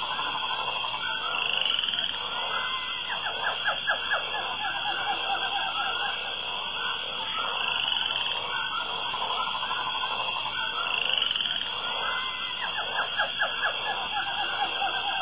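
Rainforest frogs calling in repeated bouts of rapid pulsed croaks, over a steady high-pitched tone with a few short rising whistles.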